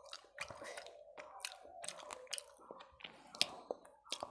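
Mouth chewing rice and fish curry, with irregular wet smacks and clicks.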